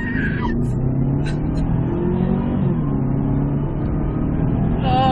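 Car engine accelerating hard, heard inside the cabin; its note climbs and drops back in steps. A woman's brief high-pitched laugh at the very start.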